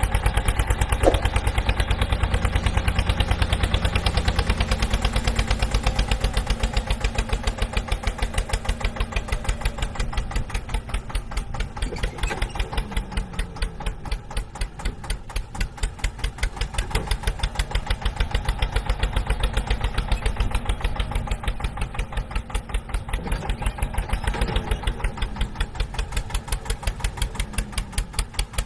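Hand tractor (two-wheel power tiller) engine running with a steady, rapid chugging beat.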